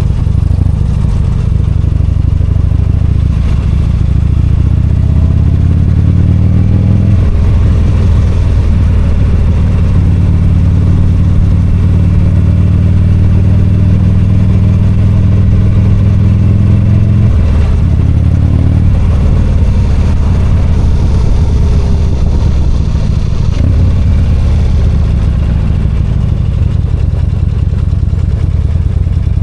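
V-twin motorcycle engine under way, climbing in pitch as it accelerates a few seconds in, holding a steady pitch at speed for about ten seconds, then dropping off before picking up and settling again.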